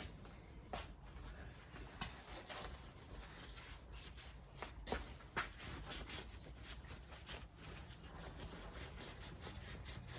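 Small metal motorcycle fork parts handled by hand: scattered light clicks and taps with soft rubbing, as the little springs are fitted onto the fork damper rod.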